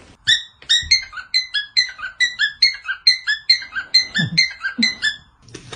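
A quick run of high, short musical notes, about four a second at varying pitches, each note dipping slightly in pitch as it fades.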